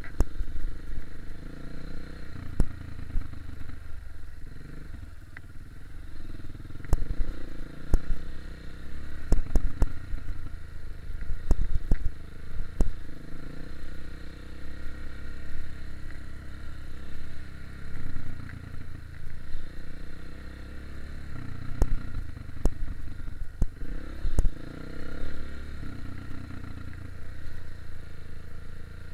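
KTM 250 EXC-F enduro motorcycle's single-cylinder four-stroke engine running with revs rising and falling while it is ridden over rough trail. Scattered sharp knocks and clatter come through the ride.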